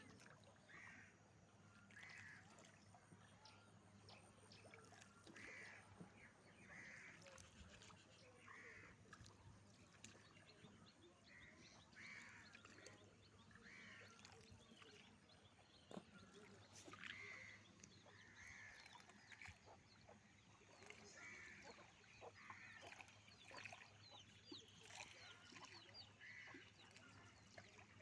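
Faint bird calls: short calls repeated about once a second or so, over a low steady hum.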